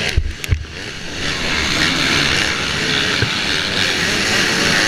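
Motocross bike engine revving up and down with a few sharp knocks in the first second, then running hard under a steady rush of wind on the helmet microphone.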